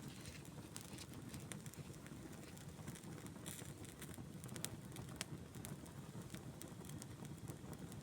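Campfire burning, with irregular crackles and sharp pops over a low steady rumble.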